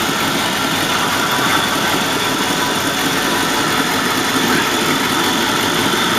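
1961 Buick LeSabre's V8 idling steadily while warming up after a cold start, running smoothly.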